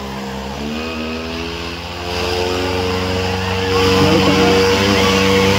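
Tractor engine running hard under load in a tractor pull and revving up, climbing in pitch and getting louder about two seconds in and again near four seconds.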